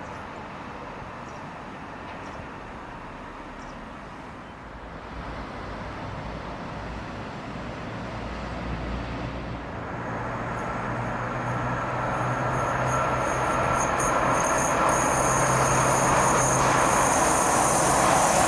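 Freight train hauled by a Green Cargo Rd2 locomotive approaching, its steady low hum and rail noise growing steadily louder. A thin high whine joins in about ten seconds in.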